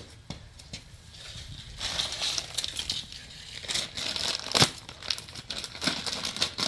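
Crinkling and rustling, like plastic wrapping being handled, while the new slip-on muffler is picked up and fitted, with a few sharp knocks, the loudest about halfway through.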